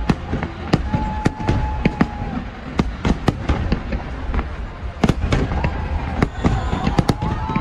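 Aerial fireworks shells bursting in rapid, irregular bangs, several a second, over a steady low rumble.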